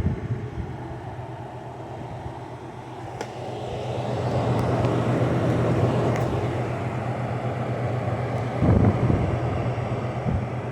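Window air conditioner running with a steady low hum and air noise that swells for a few seconds mid-way, the compressor not yet started, held off by its start-up delay. A thump near the end.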